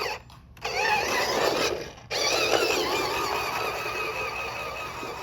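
RC car's electric motor and gears whining under throttle, the pitch wavering up and down, cutting out twice briefly as the throttle is let off and then picking up again.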